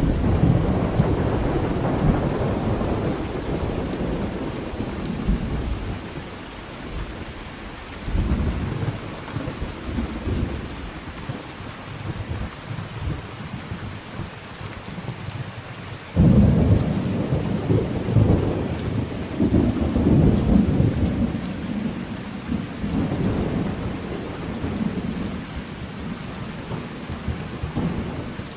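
Thunderstorm: steady rain with rolling thunder. One rumble fades away over the first six seconds, a shorter one comes about eight seconds in, and a sudden louder one breaks about sixteen seconds in and rolls on for several seconds before dying down.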